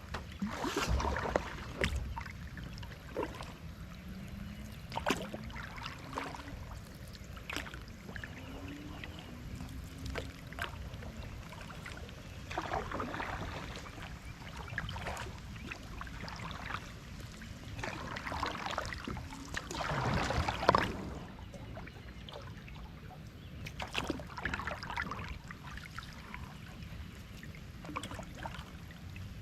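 Kayak paddle strokes swishing and splashing through the water every few seconds, with a few sharp knocks, over a steady hiss of light rain.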